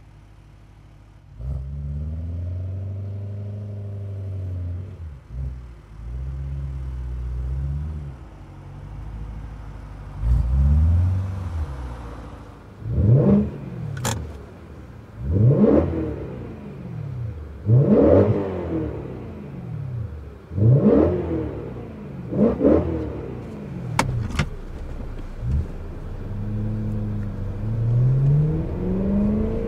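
BMW E92 M3's V8, breathing through an Eventuri carbon intake and a Dinan catless exhaust, heard from inside the cabin. It runs steadily at low revs at first, then is revved in six sharp blips, each rising fast and falling back, about two seconds apart. Near the end it pulls with a smooth rise in pitch.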